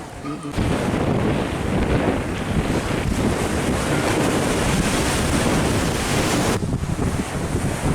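Strong wind buffeting the microphone over high sea waves, a loud rushing noise with a heavy low rumble. It starts suddenly about half a second in, and its higher hiss falls away about a second before the end.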